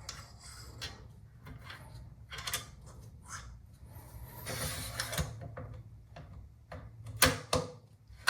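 Bolt of a bolt-action rifle action being worked by hand during a headspace check with go/no-go gauges: small metallic clicks and sliding scrapes, with two sharper clicks near the end.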